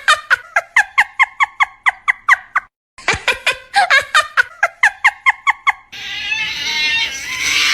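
A rapid run of short, squeaky animal-like calls, about five a second, that stops briefly and starts again. Near the end it gives way to a loud, harsh, noisy cry.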